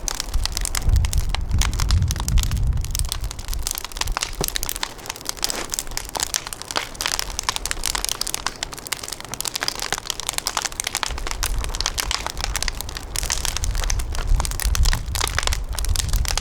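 Wood fire crackling and popping densely, with gusts of wind rumbling on the microphone in the first few seconds and again in the second half.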